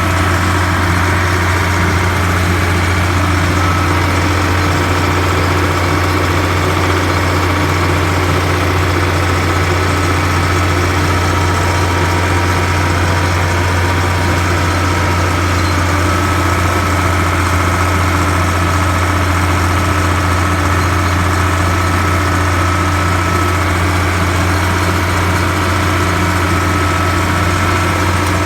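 Bobcat 1155's freshly rebuilt engine running steadily at an unchanging speed, warmed up after a couple of hours of work.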